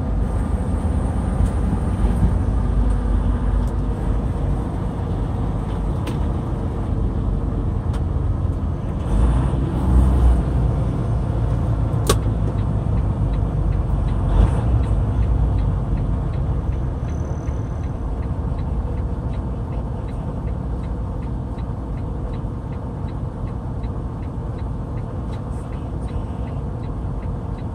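Truck pulling a loaded trailer, heard from inside the cab: a steady low engine and road rumble. There are a few louder bumps about nine to ten seconds in and a single sharp click soon after.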